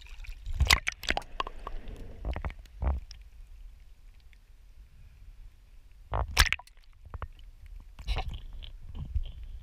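A few sharp knocks and clatters, the loudest about six seconds in, over an uneven low rumble.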